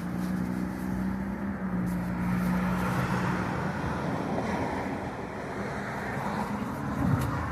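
Road traffic: a vehicle's engine hum, steady for about three and a half seconds and then fading, over a continuous haze of road noise.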